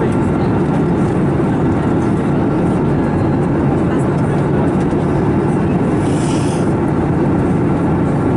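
Steady in-flight cabin noise of an Airbus A321neo, a constant low rush of airflow and engine noise. A brief hiss cuts in about six seconds in.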